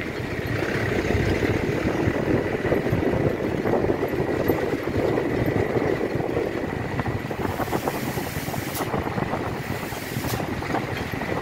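Truck driving on a rough off-road track: steady engine and road noise. Two sharp knocks come near the end.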